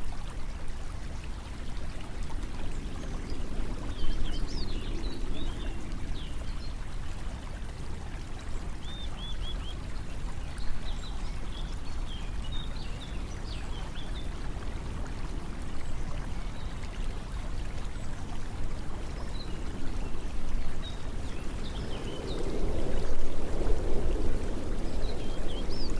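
Flowing water running steadily, like a stream, with faint short high chirps scattered through it. The water swells louder near the end.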